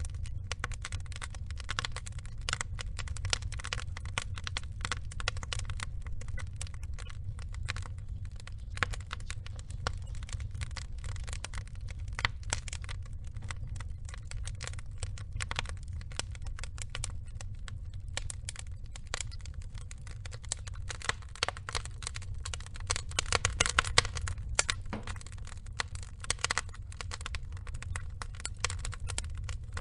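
Burning logs crackling: dense, irregular pops and snaps over a steady low rumble, with the crackling busiest about three quarters of the way through.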